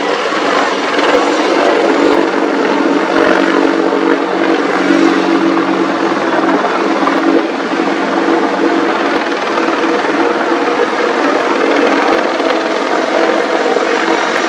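AH-64E Apache attack helicopter in flight: a steady, loud noise from its rotor and turboshaft engines.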